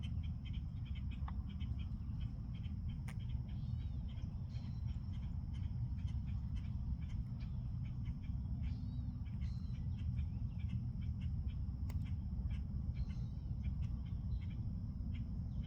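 Birds chirping and calling over and over, with a constant thin high whine and a steady low rumble underneath.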